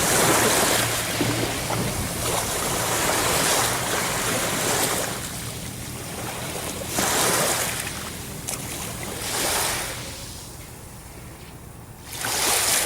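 Ocean surf: waves washing in and breaking in repeated swells a few seconds apart, each rising and then fading out, with a quieter lull near the end before one more wave breaks.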